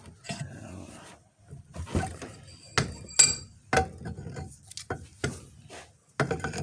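Irregular metal-on-metal knocks and clanks of hand tools working on the tractor's steering drag link, about seven in all, one giving a brief metallic ring about three seconds in.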